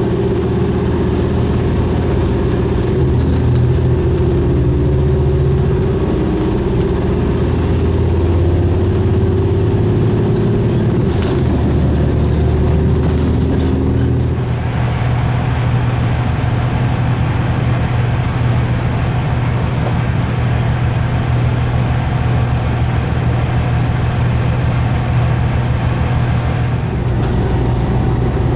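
Diesel railcar's engine running, heard on board the moving train, with a steady drone whose pitch pattern changes about halfway through as the engine note shifts.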